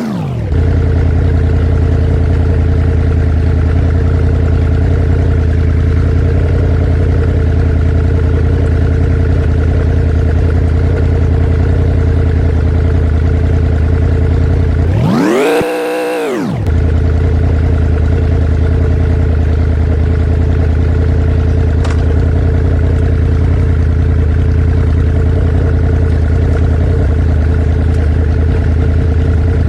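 Vehicle engine idling at a steady pitch. About halfway through it revs once, rising and falling in pitch over a second or two, then settles back to idle.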